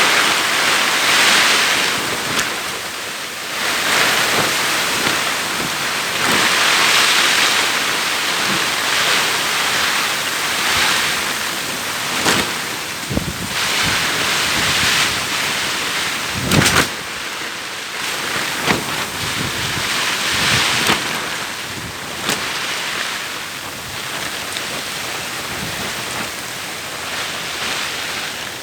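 Heavy rain driven by strong gusting wind, surging louder and softer every few seconds, with wind buffeting the microphone and a few sharp knocks.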